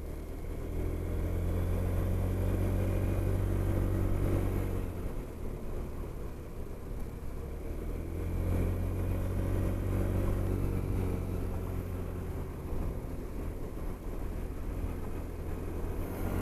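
Honda SH 300i scooter's single-cylinder engine running under way, growing louder twice as it accelerates, over steady wind and road noise.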